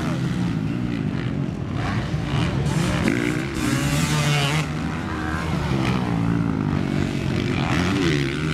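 Small dirt bike engine running, its pitch rising and falling again and again as it is revved up and backed off.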